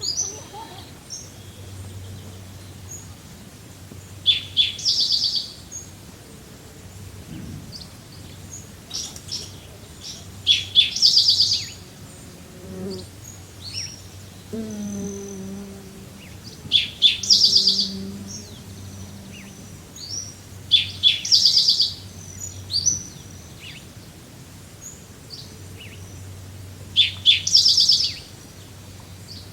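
Songbirds singing outdoors: one bird repeats a short, fast trilled phrase every five or six seconds, with scattered single chirps between. A faint low drone comes in about halfway and lasts a few seconds.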